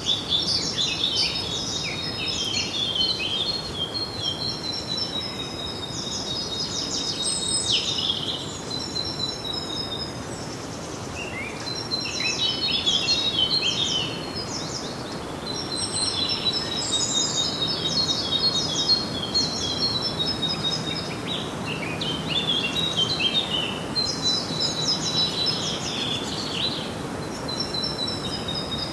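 Several songbirds singing and chirping together, in overlapping phrases of rapid high chirps and trills with a few short pauses, over a steady background hiss.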